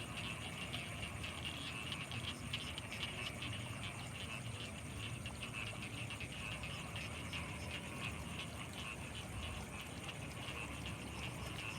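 Frogs calling in a dense, continuous chorus of rapid overlapping croaks, with a thin, steady high-pitched tone above them and a low background hum.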